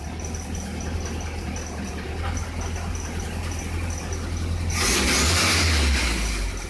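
A 1968 Volkswagen Beetle's air-cooled flat-four engine running at idle on its first startup after restoration. A louder burst of noisy sound lasts about a second near the end.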